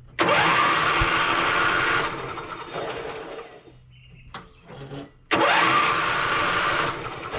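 Craftsman YT4000 riding lawn mower being cranked by its electric starter: two bursts of cranking of about two seconds each, starting abruptly, with the engine not catching. This is the crank-and-sputter no-start that the mower developed after sitting overnight.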